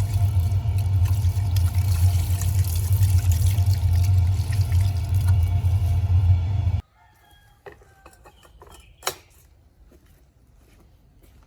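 A loud, steady machine hum with a hiss cuts off abruptly about seven seconds in. Then it is quiet, with a few small clicks and knocks and one sharper click near the end.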